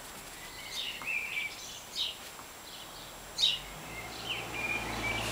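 Songbird chirping in short, sharp calls and brief held notes, the loudest about three and a half seconds in. A low rumble builds underneath near the end.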